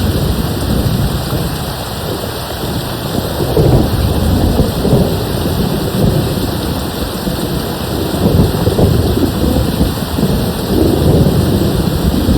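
Steady rain falling, with distant thunder rolling in low rumbles that swell and fade several times.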